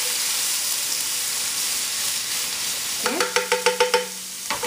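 Curry leaves, green chillies and ginger-garlic paste sizzling in hot oil in a frying pan. About three seconds in comes a quick run of spatula strokes against the pan, roughly eight in a second.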